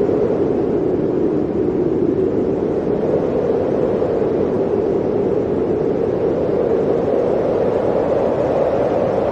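Blizzard wind blowing steadily: a dense, even rush of noise, strongest in the low middle range, with no separate gusts or other events.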